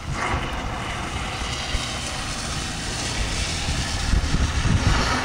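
Car engine revving as the car drifts through the snow, getting louder about four seconds in as it comes close.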